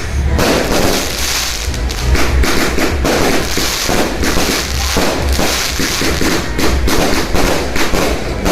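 Fireworks and firecrackers going off without pause: a dense run of rapid bangs and crackling over deep booms.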